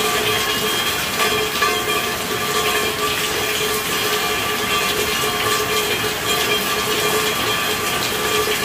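Steady heavy rain, a dense even wash of falling drops with no let-up, with a few faint steady tones running through it.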